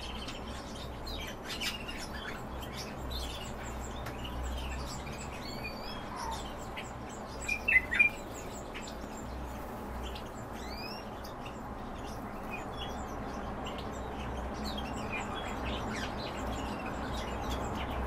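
Cage birds chirping, with many short scattered chirps and whistles and a louder burst of calls about eight seconds in, over a low steady hum.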